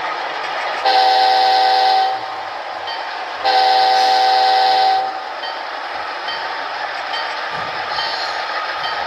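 HO-scale Athearn Genesis Amtrak P42 model locomotive's sound system sounding its horn in two blasts, the second a little longer, over the steady running sound of the diesel engine.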